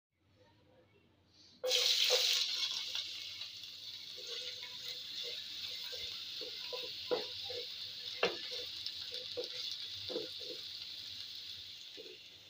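Chopped garlic sizzling in hot oil: a sudden burst of frying hiss as it hits the pan about two seconds in, settling into a steady sizzle. Short knocks and scrapes of a spatula stirring it in the pot run through the sizzle.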